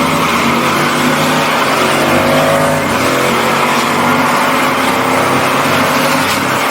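Truck V8 held at high revs with tires squealing in a burnout, engine note and tire hiss steady throughout.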